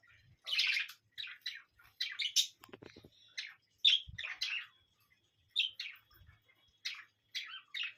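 A parrot giving short, sharp chirping calls, one after another at an irregular pace with brief gaps between them.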